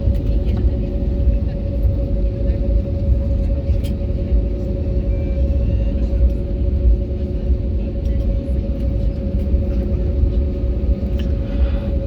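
Cabin noise of an Airbus A321neo rolling on the ground after landing. A steady low rumble from the wheels and airframe lies under a steady engine hum.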